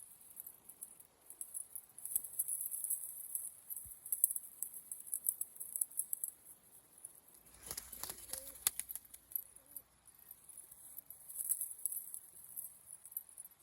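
Roller pigeons' wings flapping in a quick burst of rapid beats about halfway through, over a steady high hiss.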